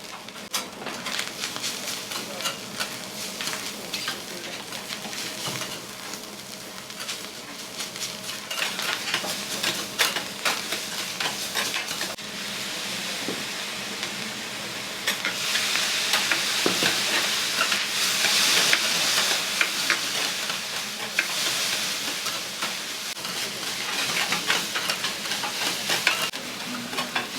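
Food sizzling on a flat iron griddle while metal spatulas scrape, tap and chop against the plate in quick, irregular strokes. The sizzle swells louder about halfway through.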